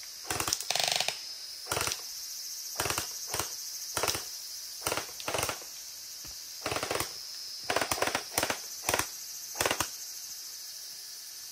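Gel-ball blasters firing: about a dozen sharp shots at irregular spacing, some in quick pairs, stopping about ten seconds in. A steady high insect drone runs underneath.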